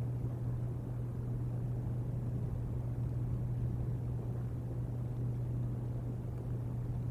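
Steady low rumble of snowstorm wind buffeting an outdoor nest-cam microphone, over a constant low hum.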